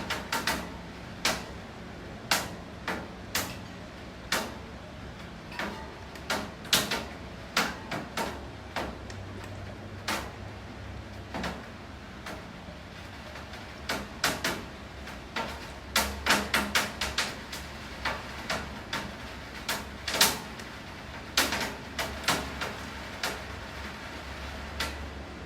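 Rain falling steadily, with large drops striking a hard surface in irregular, sharp taps, at times two or three a second.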